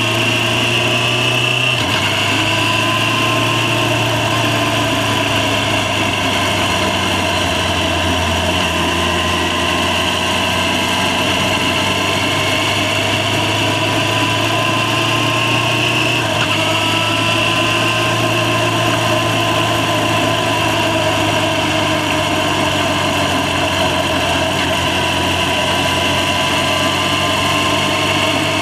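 Yamaha FZ6's inline-four engine running while riding, steady and loud, its pitch drifting a little, with abrupt steps in pitch about two seconds in and again about halfway through.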